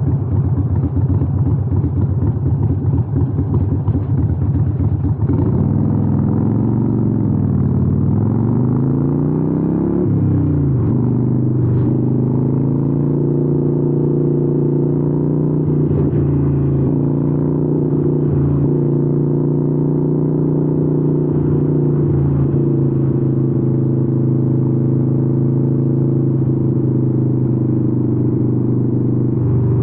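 Harley-Davidson Iron 883's air-cooled V-twin running through Vance & Hines exhausts while riding. The engine pitch rises and falls a few times in the first ten seconds or so, then holds steady at cruise.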